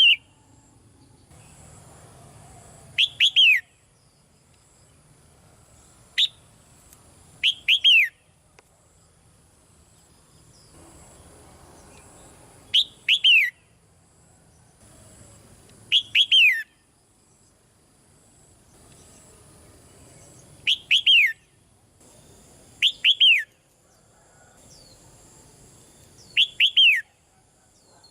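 Red-whiskered bulbul calling: about eight short, bright phrases, each a quick pair or trio of whistled notes falling in pitch, repeated every few seconds.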